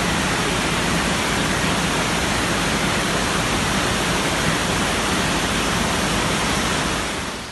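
Loud, steady rush of water, with no breaks, fading out near the end.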